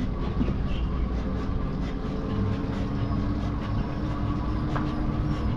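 Steady low rumble of wind and rolling road noise while riding along, with a faint steady hum in the middle.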